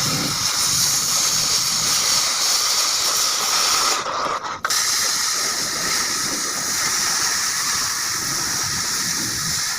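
Gas cutting torch hissing steadily as it cuts steel, with a brief break about four seconds in before the hiss resumes.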